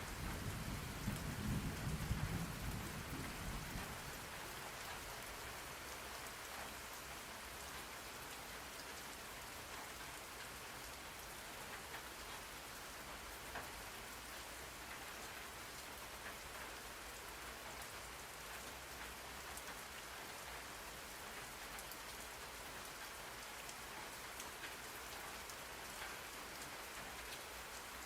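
Steady rain ambience: rain falling on a surface as an even hiss. In the first few seconds a low rumble of thunder dies away.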